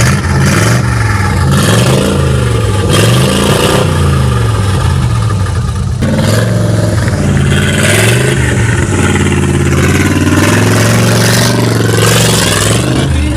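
Loud engine revved through its exhaust for a loudness test. The pitch climbs and falls again and again, then is held high for a few seconds before dropping near the end.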